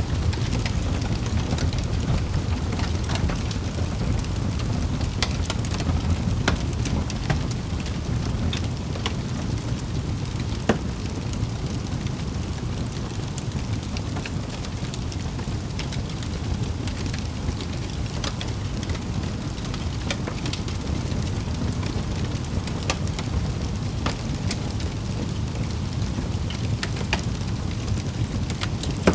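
Wood fire crackling in a fireplace: a steady low rumble with scattered small pops and crackles, and one sharper pop about eleven seconds in.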